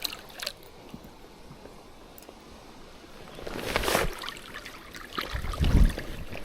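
Water splashing and sloshing, with a louder splash about three and a half seconds in and low thumps near the end.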